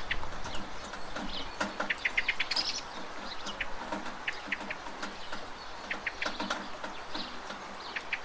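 Steady rain with scattered drips and taps, possibly from a rain gutter. A small bird gives two short runs of rapid high chirps, about 2 seconds in and again about 6 seconds in.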